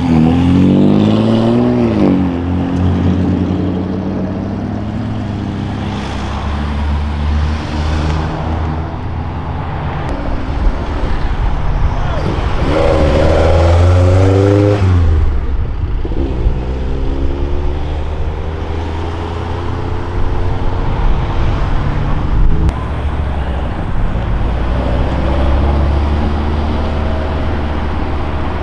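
Modified cars pulling away one after another, engines running with a steady low hum and revving up and down several times. The loudest rev comes about halfway through.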